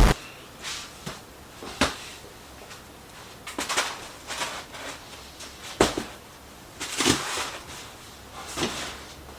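Handling noises: rustling of packaging and several sharp knocks and clicks as parts of the insulation kit are picked up and moved.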